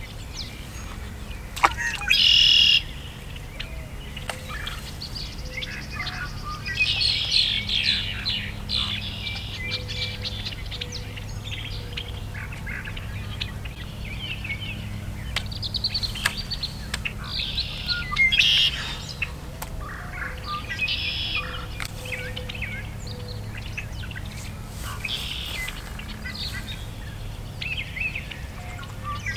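Birds chirping and calling on and off, many short, varied calls. A sharp click comes about one and a half seconds in, followed by a brief loud burst, over a steady low hum.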